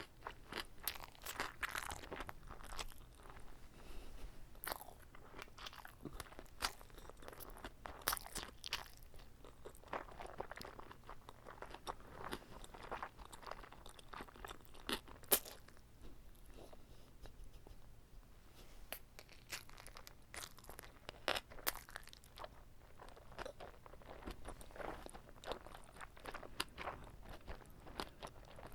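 Close-miked chewing of a whole uncut kimbap roll: many sharp, irregular crunches and mouth clicks throughout.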